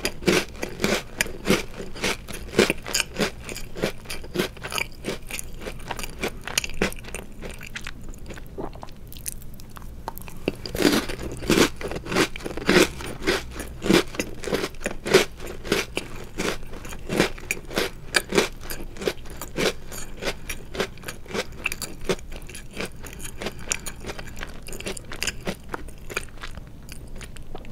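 Close-up crunching and chewing of chocolate-covered Oreo cookies, with a quick steady run of crunches. There is a short lull about a third of the way in, then a loud fresh bite and more chewing.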